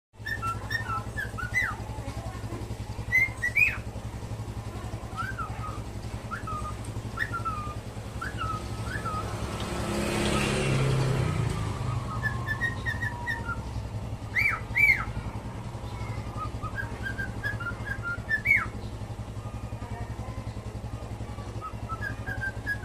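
A songbird singing in phrases of short chirps and swooping whistles, with a few louder sharp up-and-down whistles, over a steady low hum. About ten seconds in, a rushing noise swells and fades.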